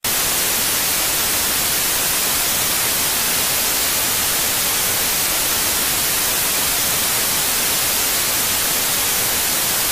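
Steady static hiss like white noise, strongest in the high end, at an unchanging level, that cuts off suddenly at the end.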